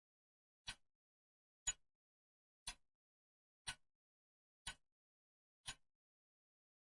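Clock ticking: six sharp ticks, one each second, with silence between.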